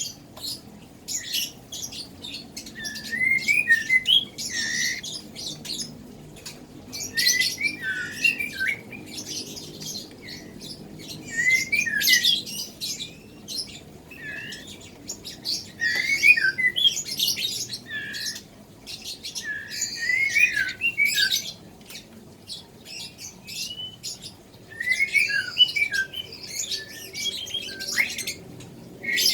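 White-rumped shama chick begging while being hand-fed: short bursts of squeaky chirps that rise and fall, repeating every two to four seconds.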